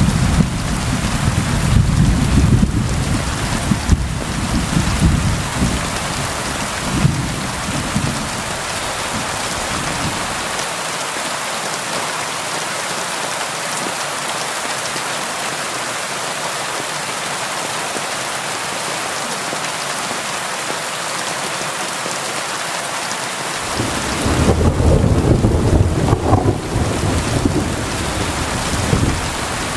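Steady rain falling on a window, with low rumbles of thunder through the first ten seconds or so and again about three-quarters of the way through.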